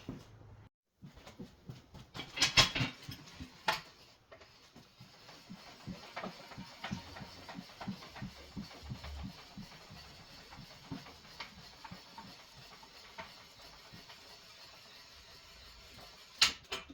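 Handling noise: a cluster of loud clatters and knocks two to three seconds in, then many small, irregular clicks and knocks over a faint hiss, with another sharp knock near the end.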